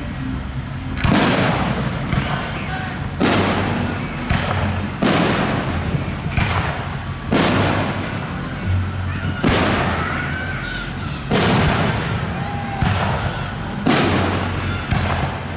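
Aerial fireworks shells bursting in a steady barrage, about ten booms one to two seconds apart, each dying away in a short trail.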